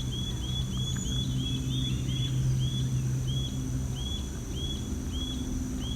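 A bird calling a series of short, clear, arched notes, about three a second at first and then slowing to about one every half second or more. Underneath are a steady high insect drone and a low steady hum.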